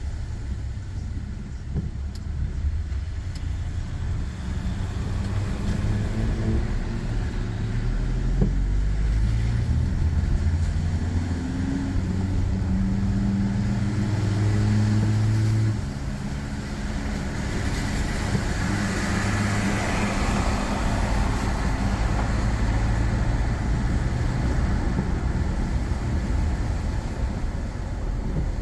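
Motor vehicle engine accelerating, its pitch climbing in steps as it changes up through the gears, over a steady road rumble. A louder rush of road noise swells and fades about two-thirds of the way through.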